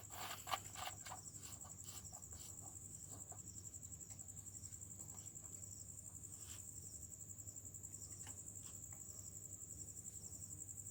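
Crickets chirring steadily at a high pitch in a fast, even pulse, with a few faint clicks in the first couple of seconds.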